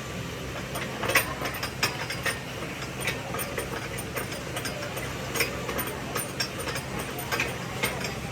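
Irregular sharp clicks and knocks of tool work, several a second with the loudest about a second in, over a steady low hum.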